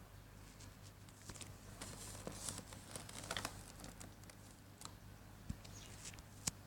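Packaging of a model airliner crinkling faintly as it is handled, with scattered light crackles and small clicks, busiest in the middle and with a sharper click near the end.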